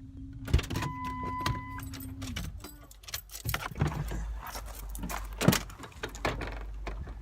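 Keys jangling amid a run of clicks and knocks, with a steady hum that stops about two and a half seconds in and a short beep about a second in.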